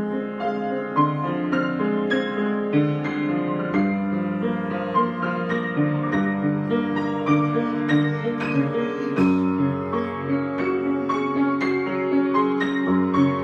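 Solo piano improvisation: chords held in the lower and middle register under a flowing line of single notes, struck about twice a second.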